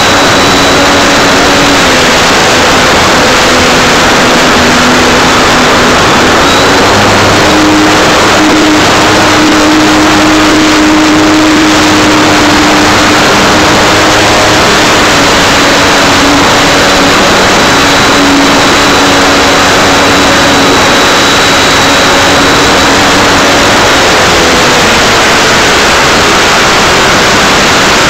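Electric motor and propeller of an Art-Tech Cessna 182 RC plane running in flight, heard through a nose-mounted keychain camera's microphone. Loud wind rush with a steady drone whose pitch drifts slightly with throttle, and a faint high whine.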